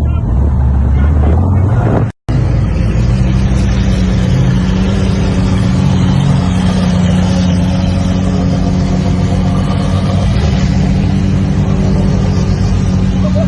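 A car engine running at a steady pitch amid loud noise, broken by a brief dropout about two seconds in.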